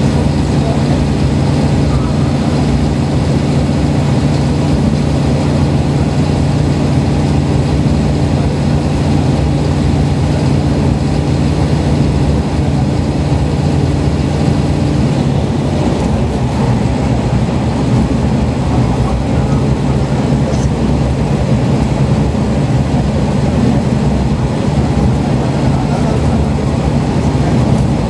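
Diesel railcar running at speed, heard from inside the car: a steady engine drone over the rumble of wheels on rail. About halfway through, the engine note drops away and the wheel-and-rail running noise carries on.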